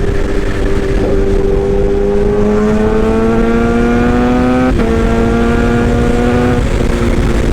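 Excavator engine and hydraulics running loud, with a humming whine that rises in pitch for a few seconds. A click comes about halfway through, then the whine holds steady and drops back down near the end.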